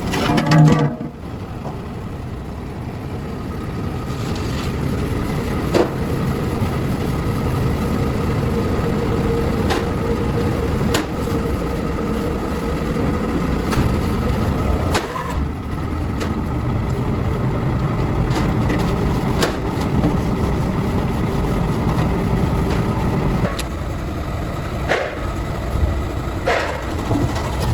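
Steady running of a motor-driven workshop machine, a low even rumble with a faint steady tone, with occasional sharp knocks scattered through it.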